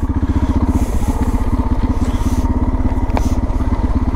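Suzuki DR650's single-cylinder four-stroke engine running steadily as the bike rides downhill.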